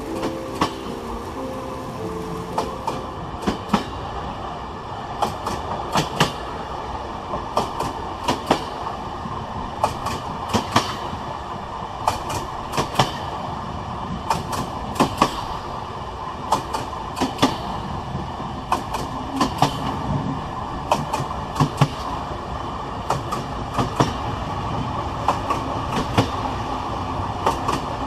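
A train running steadily, its wheels clicking over rail joints, often in quick pairs, over a constant rolling hum.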